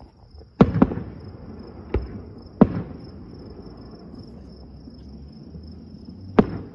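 Distant aerial firework shells bursting: five sharp bangs, a quick pair just after half a second in and then single ones about two, two and a half and six and a half seconds in, each trailing off in an echo. Crickets chirp steadily underneath.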